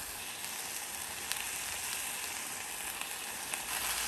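Rib meat, mustard-leaf kimchi and garlic sizzling as they fry in a pot: a steady hiss with a few faint ticks.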